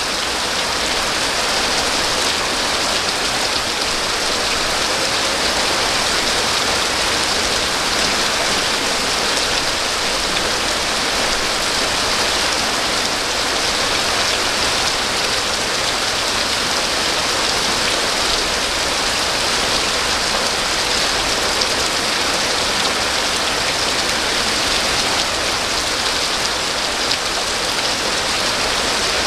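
Steady rain falling, an even hiss of drops on surfaces that neither builds nor eases.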